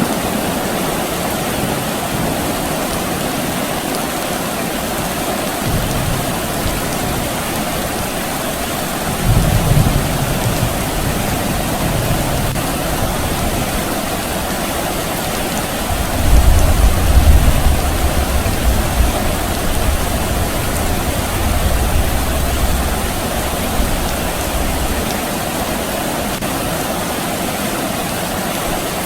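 Steady soft rain with low rumbles of distant thunder: a couple of shorter rumbles between about six and twelve seconds in, and a longer, louder rolling rumble from about sixteen seconds that fades out by twenty-five.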